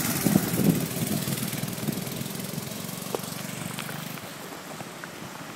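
Briggs & Stratton minibike engine running at speed with its governor adjusted for more rpm, fading steadily as the bike moves away until only faint outdoor hiss remains about four seconds in.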